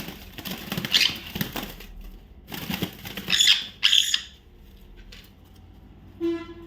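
Indian ringneck parakeet giving short squawks and fluttering its wings in a few quick bursts, with one short buzzy call near the end.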